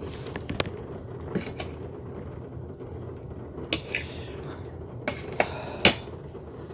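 A series of short sharp clicks and light knocks, about seven of them at uneven intervals, over a steady low background hum.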